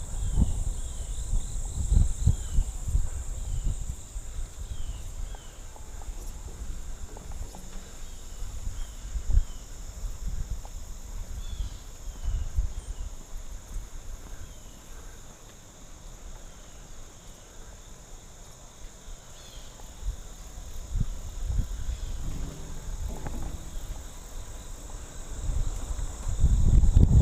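Steady high-pitched insect drone, crickets or similar, with runs of short falling chirps, heard while riding a bicycle. Wind buffets the microphone as a low rumble, heavier near the start and end and lighter in the middle.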